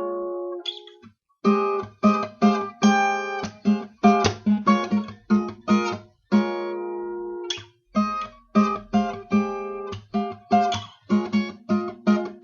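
Acoustic guitar playing an instrumental break: a run of strummed and plucked chords, with longer chords left ringing twice.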